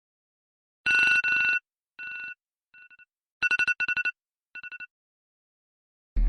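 Electronic telephone ringtone sound effect: trilling rings on two steady pitches, a loud ring about a second in followed by quieter repeats, then a rapid loud trill at about three and a half seconds and a softer one after it. A loud low sound cuts in at the very end.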